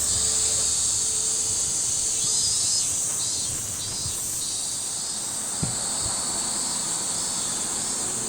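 A steady high buzzing chorus of summer insects, pulsing in places, with a single soft knock a little past halfway.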